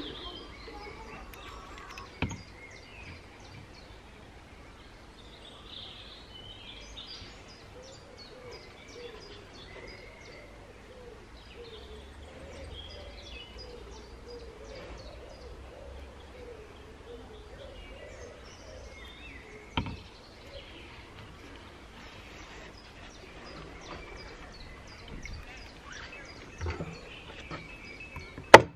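Birds chirping in the background through a steady low outdoor hush, with a few sharp knocks, the loudest just before the end.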